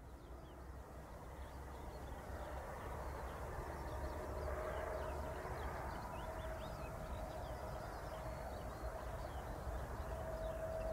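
A distant train approaching, a low rumble with a steady engine whine that grows louder. Small birds chirp high above it throughout.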